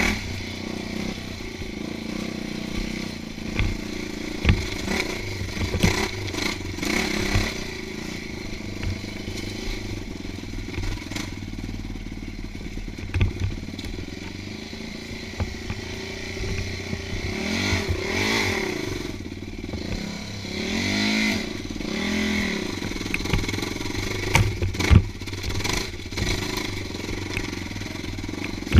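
Dirt bike engine running while being ridden along a rough trail, the revs climbing and dropping a couple of times about two-thirds of the way through, with scattered knocks and clatter from the bumpy ground.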